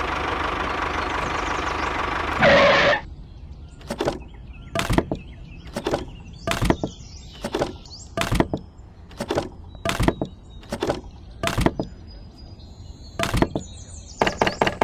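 Dry wooden sticks set down by hand one at a time on the ground, each a sharp knock, about ten of them roughly a second apart. At the start a steady engine-like drone runs for about two and a half seconds, then cuts off after a loud burst. Rhythmic music begins near the end.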